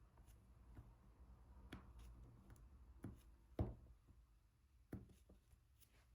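Soft, sparse taps and clicks of diamond painting: about six sharp ticks as a drill pen picks up and presses resin drills onto the adhesive canvas, the loudest a little past the middle.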